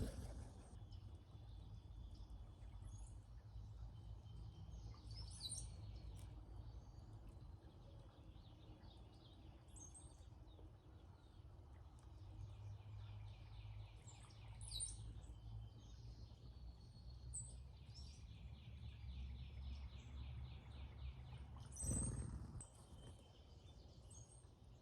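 Brown-headed cowbirds calling around a feeder: faint scattered high squeaks and thin downward-gliding whistles, and a fast dry chattering rattle about three-quarters of the way through, over a steady low rumble. A short loud burst of noise comes near the end.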